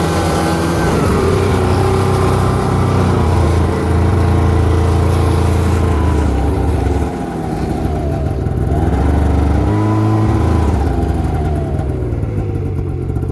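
Snowmobile engine running under throttle, its pitch rising and falling as the revs change. It drops off about seven seconds in, revs up again a couple of seconds later, then winds down near the end.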